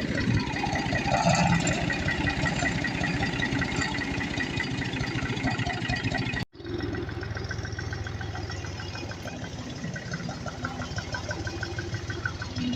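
Tractor engine running steadily with a rapid, even beat. It cuts out abruptly about six and a half seconds in and is back straight away.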